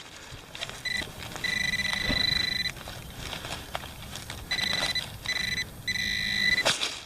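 Handheld metal-detecting pinpointer (White's TRX) sounding a steady high tone several times, for about a second at a stretch, as it is passed over a metal target in the freshly dug dirt. Short scrapes and ticks of dirt being worked by hand come in between.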